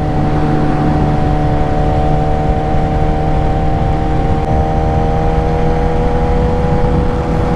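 Suzuki GSX-R 600 inline-four engine running at a steady cruising speed, its note holding an even pitch throughout.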